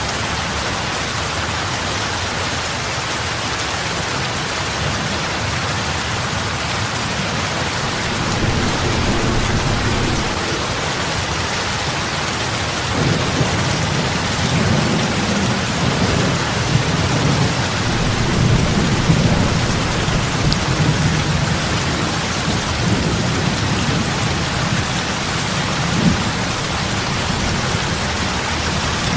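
Steady heavy rain falling on lake water, an even hiss of drops hitting the surface. A low rumble swells in under it about eight seconds in and again from about thirteen seconds until near the end.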